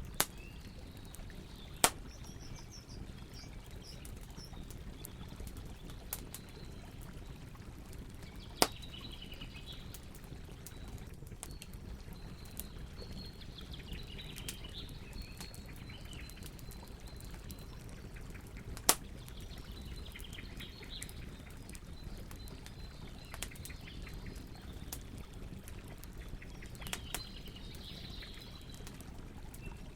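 Campfire burning with a steady low rush and scattered crackles, four of them loud sharp pops. Birds chirp in the background.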